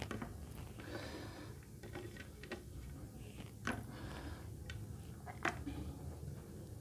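Close-miked chewing and wet mouth sounds of a person eating mutton curry with rice, with scattered smacks and clicks and two sharper clicks about three and a half and five and a half seconds in.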